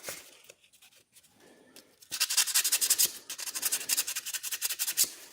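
A small metal knife shield being roughed up by hand with an abrasive, in quick back-and-forth scratchy strokes several times a second that start about two seconds in. This is the shield being cleaned and scuffed so the glue will grip.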